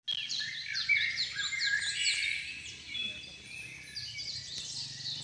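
Birds chirping, many short overlapping chirps, busiest in the first few seconds and thinning after.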